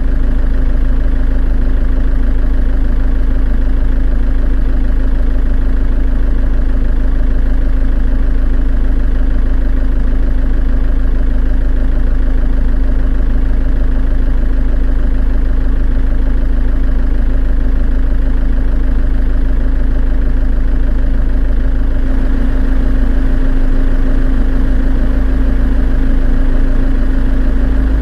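An engine idling steadily, loud and even, with a deep low hum and no change in speed.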